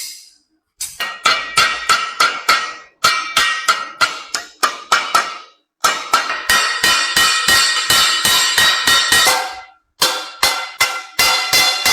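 Hammer striking a tinplate water ladle in quick runs of ringing metal blows, several a second, with short pauses between runs.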